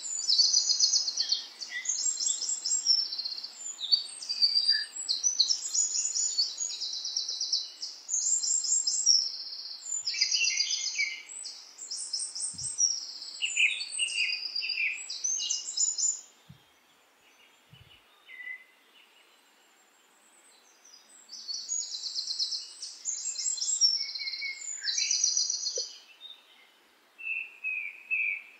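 A songbird singing high, fast trilled phrases one after another, breaking off for several seconds past the middle before starting again.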